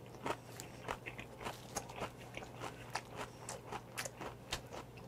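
A person chewing a mouthful of bossam wrap (salted napa cabbage, boiled pork and raw oyster) close to the microphone: a run of small, irregular crisp crunches, two or three a second.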